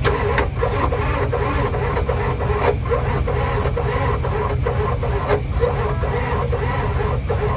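Starter motor cranking a Ford 7.3 IDI diesel with a steady whine and a regular chug of compression strokes, without the engine catching. A running engine idles underneath throughout.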